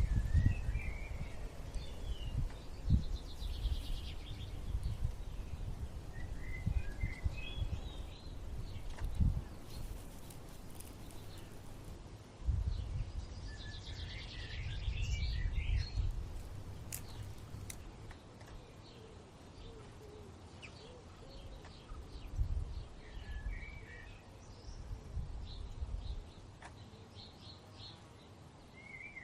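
Small birds chirping on and off with short high calls, over a low rumbling noise that swells and fades and is the loudest thing heard.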